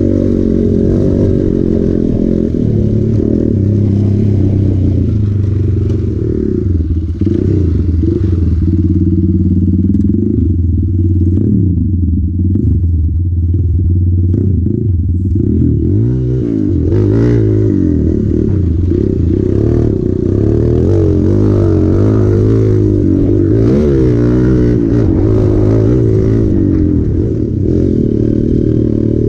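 Hero Impulse's single-cylinder four-stroke motorcycle engine running continuously, revving up and down under changing throttle.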